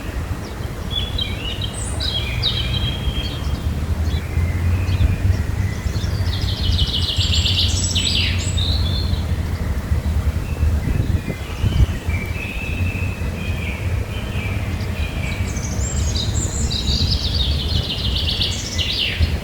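Birds singing and calling, with a rapid trilled song about six seconds in and again about sixteen seconds in, over a steady low rumble.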